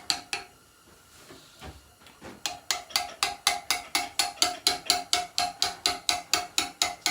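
Hammer striking a steel chisel in quick, even blows on stone, about four to five strikes a second, each with a short metallic ring. The strikes pause briefly just after the start and pick up again about two and a half seconds in.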